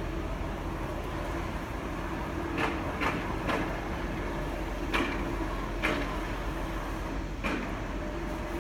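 Heavy truck running with a steady low rumble, broken by six sharp knocks or clanks at uneven intervals.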